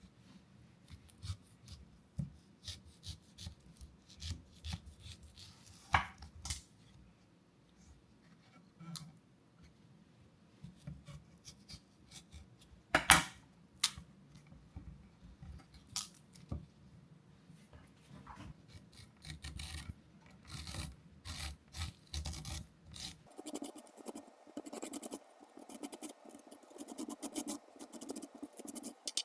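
Food-preparation handling sounds: rubbing and scraping with scattered light clicks and knocks of utensils, and one sharp knock about halfway through. Near the end the sound changes to a denser, steadier scratching.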